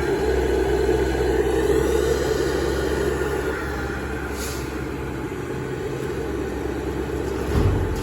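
Diesel engines of an excavator and dump trucks running steadily, with a brief hiss about halfway through and a low thump near the end.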